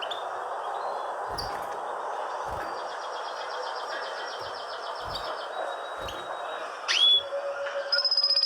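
Small birds chirping and trilling over steady background noise: a fast high trill in the middle and a sharp rising note near the end, with a few soft low thumps.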